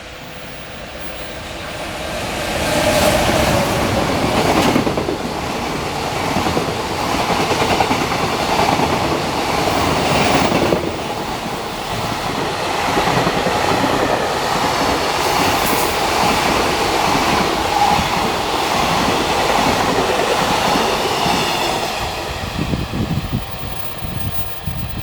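Freight train passing at speed, building up over the first few seconds, then a long, steady run of wagon wheels clattering over the rail joints, fading near the end as the last wagons go by.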